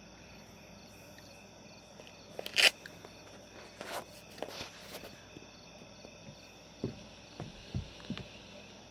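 Night chorus of crickets and other insects chirring steadily, with scattered knocks and taps like footsteps and handling. The loudest is a sharp crack about two and a half seconds in.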